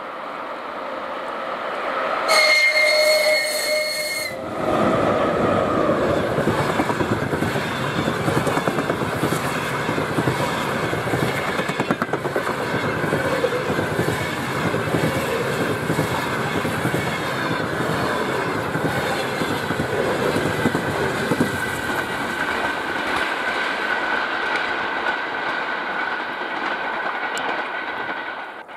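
A VL80T electric locomotive sounds its horn once, a steady blast of about two seconds starting about two seconds in, then it and its passenger carriages rumble past with wheels clattering over the rail joints for most of the rest, the noise thinning out near the end as the train recedes.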